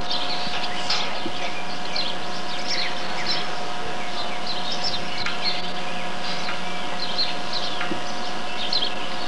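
Small birds chirping over and over, with short high calls scattered throughout, over a steady hum.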